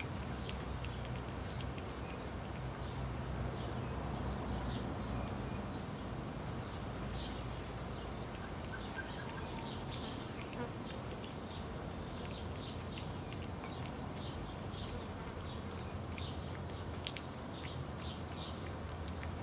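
Kittens eating: quick, irregular little clicks and crunches of chewing, over a steady low hum.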